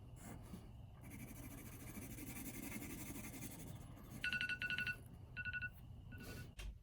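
Drawing on paper, a dry scratching, then an electronic timer alarm beeping in three quick runs of pips: one longer run, then two shorter ones. The alarm signals that the 10 seconds for the drawing are up.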